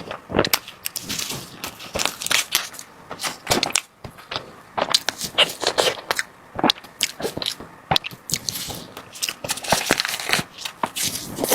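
Close-miked eating of desserts: bites and chewing with irregular crunchy, crackling sounds.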